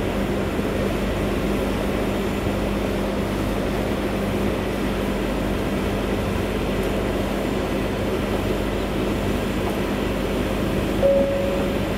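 Steady, even hum of a ferry's machinery heard on deck, with a constant low tone running through it. Near the end a short single tone sounds over it, the kind of chime that comes just before a passenger announcement.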